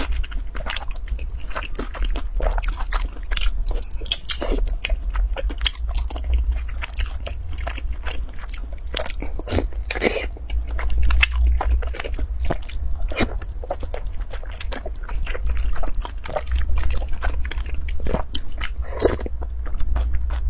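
Close-miked eating: wet chewing, biting and lip smacks of soft food in a thick sauce, a dense run of short smacks and clicks over a low rumble.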